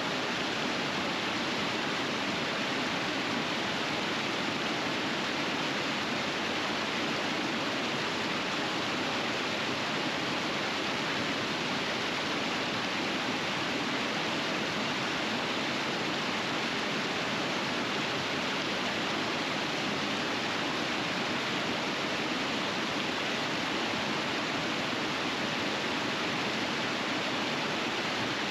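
River rapids rushing: a steady, unbroken flow of water noise.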